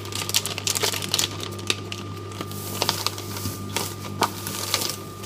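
Vegetarian sausages sizzling in a hot frying pan, with irregular sharp crackles and pops of spitting fat. A steady low hum from the running microwave lies underneath.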